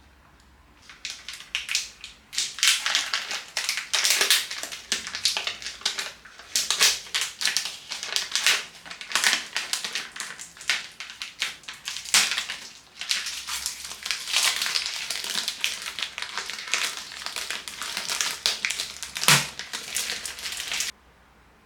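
Dense, irregular crunching and crackling, like something being crushed or crumpled by hand, starting about a second in and stopping suddenly near the end.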